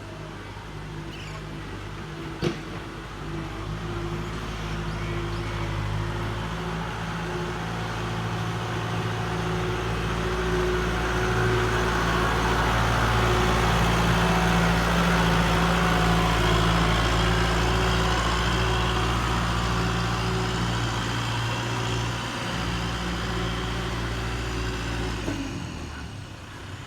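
Kubota tractor's diesel engine running steadily, growing louder toward the middle and fading again before dropping off sharply near the end. A single sharp click comes a couple of seconds in.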